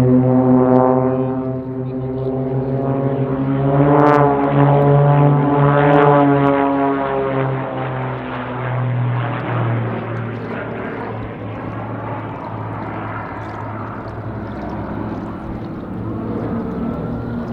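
Propeller aerobatic aircraft engines droning as the team flies past, loudest around four to six seconds in, where the pitch sweeps with the pass, then fading off.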